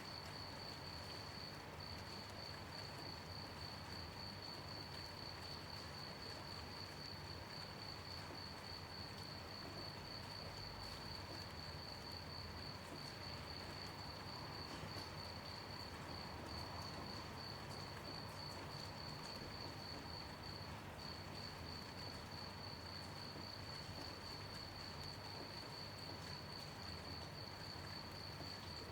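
Crickets chirping in a steady, rapid high-pitched trill that breaks off briefly twice, over a soft, even hiss of gentle rain.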